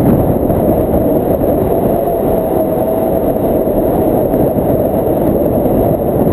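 Steady loud rush of wind buffeting the microphone in flight under a paraglider, with no engine.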